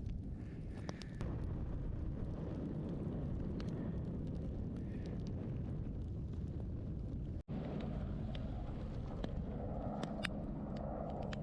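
Outdoor bonfire crackling with scattered sharp pops over a steady low rumble, with a brief dropout about seven seconds in.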